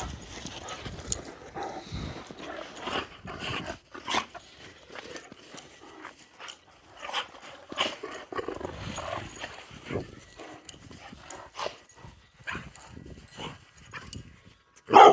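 A dog moving about close by: scattered clicks and soft scuffling and snuffling sounds, then a loud bark right at the very end.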